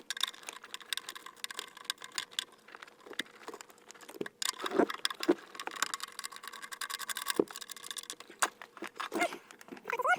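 Hands working on car wiring and ECU parts: a dense, irregular run of clicks, taps and rustling.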